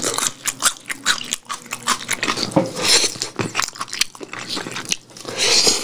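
A person chewing sauced fried chicken close to the microphone: steady wet chewing with many small clicks and lip smacks, and a few louder wet sucking sounds.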